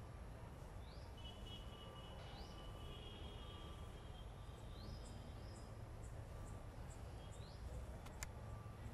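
Faint outdoor ambience: birds calling short rising chirps several times over a low steady rumble, with one sharp click near the end.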